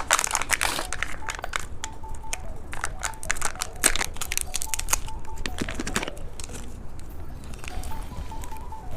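Plastic candy packaging crinkling and crackling as it is handled and torn open, in many quick irregular crackles.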